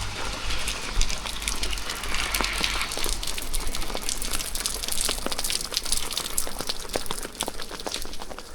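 Rain falling, with many sharp, irregular drops striking close to the microphone. A low rumble fades out over the first two seconds.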